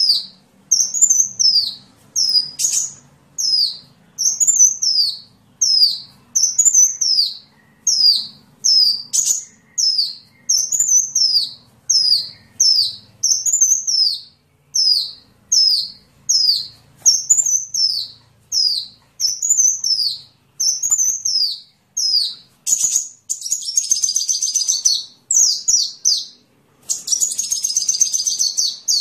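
Sunbird song: a high, down-slurred note repeated about once a second, breaking into fast, busy twittering trills in the last few seconds.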